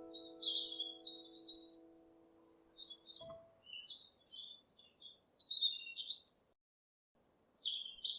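Small songbirds chirping and twittering in quick, high phrases, while the held notes of soft music fade and stop about three seconds in.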